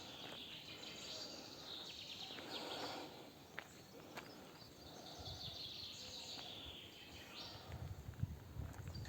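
Faint woodland ambience with birds chirping and a few sharp clicks, and a low rumble building up near the end.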